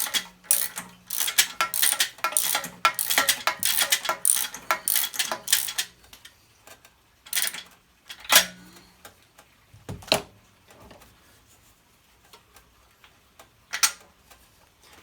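Hand tools and metal engine parts clinking and clicking in a quick, irregular run for about six seconds, then a few separate knocks.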